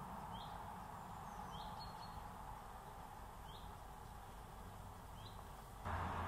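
A small bird chirping: short high calls every second or two over steady outdoor background noise, which jumps abruptly louder near the end.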